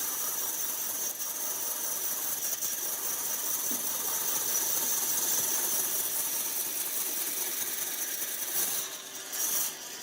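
A workshop machine running steadily, a noisy whir with a steady high whine over it, dropping away briefly near the end.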